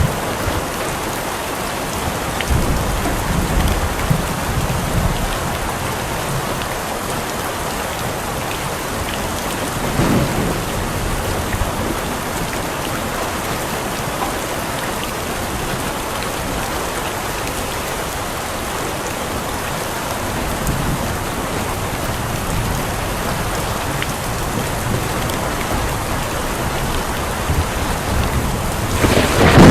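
Steady, heavy rain falling on a surface, with occasional low rumbles swelling and fading, and a louder low rumble building near the end.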